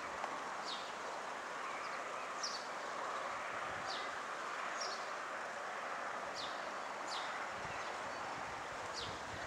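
A songbird repeating a short, high, falling chirp every second or so, over a steady outdoor background hiss.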